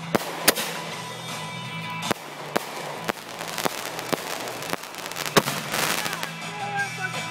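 Aerial fireworks going off: a string of about ten sharp bangs at irregular intervals, some a few tenths of a second apart, with a denser crackling stretch in the second half.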